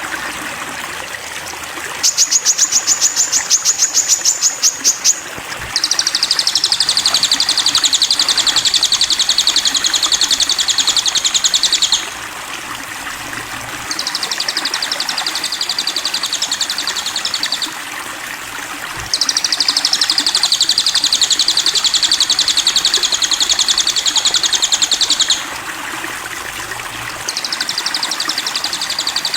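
Crimson sunbird (sogon) singing: long, very fast trills, each held for three to six seconds, five of them with short pauses between. The first trill is higher and more clearly pulsed than the later ones. A steady hiss of background noise runs underneath.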